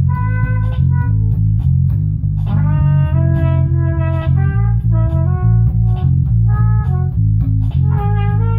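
A band jamming instrumentally: a loud bass guitar line under a guitar playing a melody of held notes, with faint regular ticks above.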